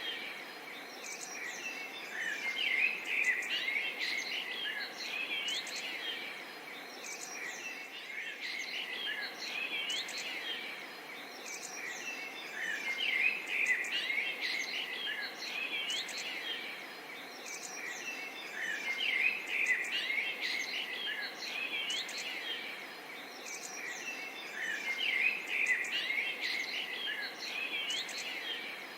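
Forest and swamp ambience: many birds chirping and calling together over a steady background hiss, the birdsong swelling louder every few seconds.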